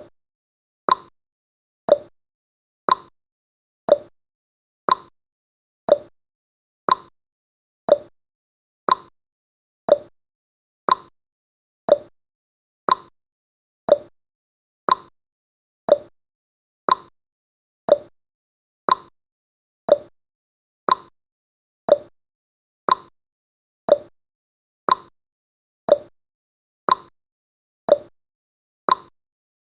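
Countdown timer tick sound effect: one short tick each second, evenly spaced, with silence between ticks.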